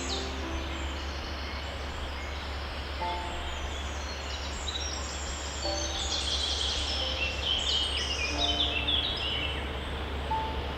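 Many songbirds chirping and twittering in quick high-pitched bursts, busiest and loudest about six seconds in, over a steady hiss and low hum. Soft, scattered held musical notes sound underneath.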